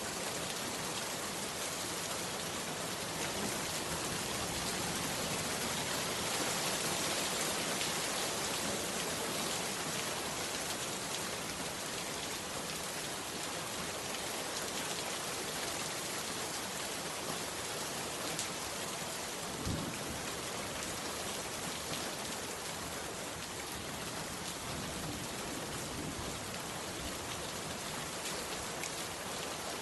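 Heavy rain falling steadily. A single short thump comes about two-thirds of the way through.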